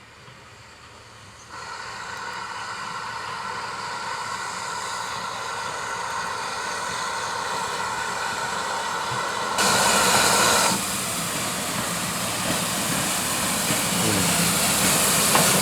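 Steam train approaching and getting steadily louder, with a steady high ringing tone that comes in suddenly about a second and a half in and a short, louder burst of hiss about ten seconds in.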